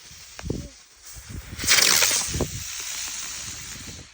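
A lit firework fuse hissing, then about a second and a half in a smoke-trail firework fires with a sudden loud whoosh, settling into a steady hiss that stops near the end.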